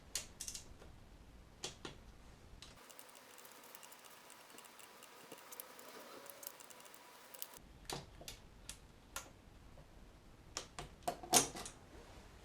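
Scattered light clicks and taps of small tools and metal parts being handled, with a quicker, louder cluster of clicks near the end.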